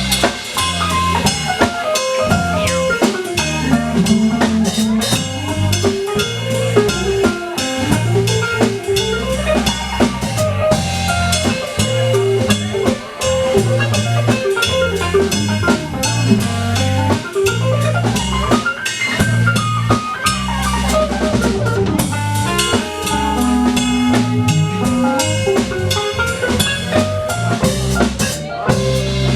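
Live band playing an instrumental section: drum kit keeping a steady groove with bass, while a lead instrument plays fast runs that climb and fall.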